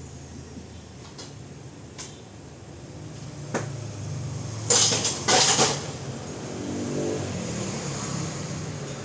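A vehicle engine running with a steady low hum, a few sharp knocks, then two loud hissing bursts about halfway through and a rise in engine pitch near the end.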